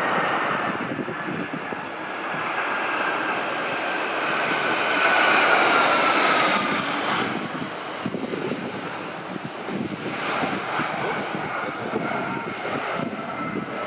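Jet airliner passing close by, its engines rushing with a whine that falls in pitch as it goes past, loudest about halfway through.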